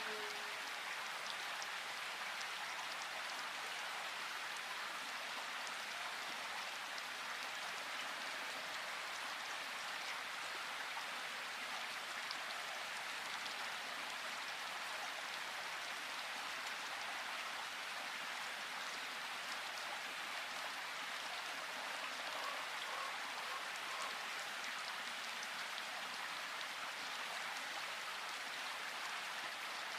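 Steady rain falling in a forest, an even hiss with scattered close drops pattering.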